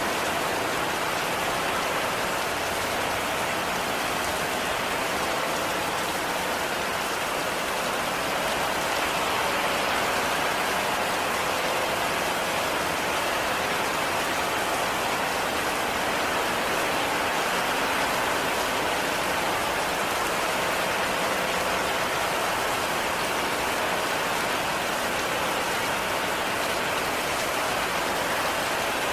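Heavy rain falling steadily, an even, unbroken hiss of drops on a surface with no distinct individual impacts.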